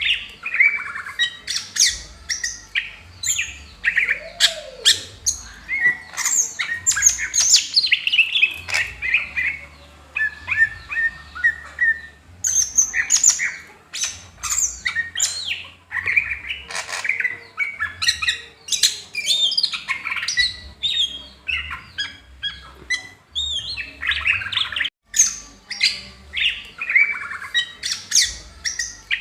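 Cucak hijau (green leafbird) singing a fast, varied song of chattering notes, slurred whistles and harsh squawks, with a brief break about 25 seconds in.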